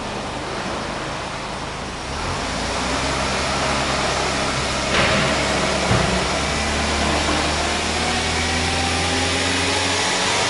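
Subaru Stella kei car's engine running, stepping up in level about two seconds in, then slowly climbing in pitch through the second half as it is revved gently, and dropping back near the end.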